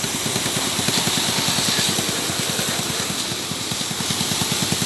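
Motorbike engine idling with an even, rapid pulse, under a steady hiss of water being sprayed over the bike: a test to find where wet parts make the engine stall.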